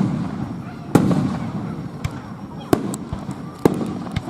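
Aerial firework shells bursting: several sharp bangs roughly a second apart, each followed by a fading echo.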